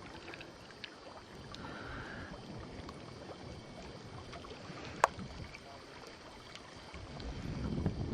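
Quiet canoe-on-the-water sounds: faint water noise with scattered small clicks and one sharp knock about five seconds in. A louder, rushing low noise builds near the end, like wind on the microphone.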